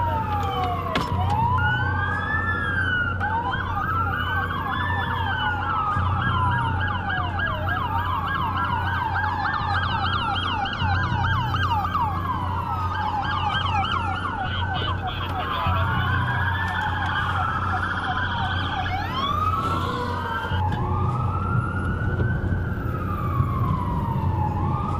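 Several emergency-vehicle sirens sounding at once, overlapping rising and falling wails with stretches of faster yelping sweeps, over a low rumble.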